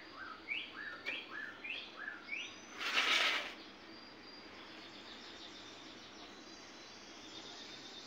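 Birds singing: about five quick rising chirps in the first two and a half seconds. About three seconds in comes a brief, loud rustling whoosh, the loudest sound here, followed by faint steady outdoor ambience.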